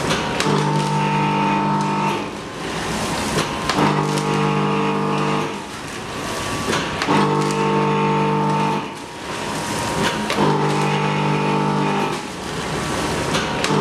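Automatic tempe packing machine running through repeated cycles. Every three seconds or so a steady pitched motor hum runs for about two seconds, then drops away for a moment with a few clicks before the next cycle.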